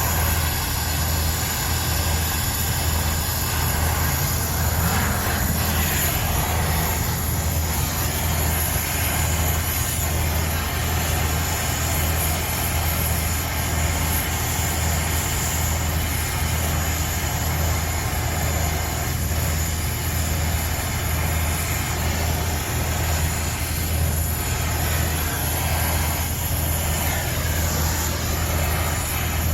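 Steady low machinery hum under a constant even noise, unchanging throughout.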